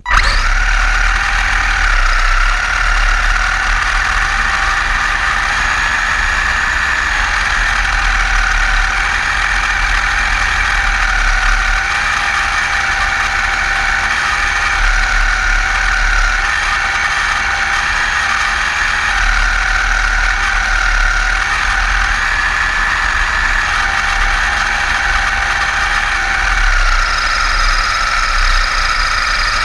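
Electric motor and gear train of a Kyosho Blizzard RC tracked snow vehicle, converted from nitro to electric, whining steadily as it drives. The pitch drifts gently up and down with the throttle.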